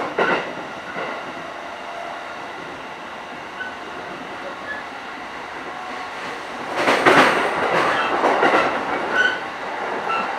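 Interior running noise of a JR East E233-series commuter train in motion: a steady rumble that grows louder and rougher from about seven seconds in, with clacks from the wheels and a few brief squeals.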